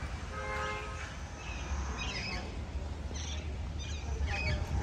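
Small birds chirping in short, scattered calls over a low steady outdoor rumble, with one brief pitched call about half a second in.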